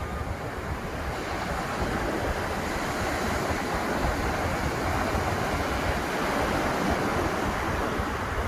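Atlantic surf breaking and washing up the beach, a steady rush that swells a little louder a second or two in, with wind rumbling on the microphone.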